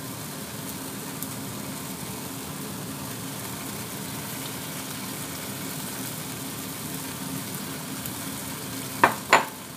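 Tomatoes frying in a hot wok on a gas hob: a steady sizzle over a steady low hum. Two sharp knocks near the end.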